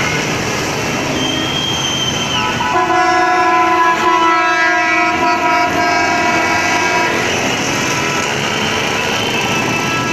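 A multi-tone air horn blown as a steady chord for about four seconds, over a dense background din of traffic; a shorter horn tone slides down in pitch just before it.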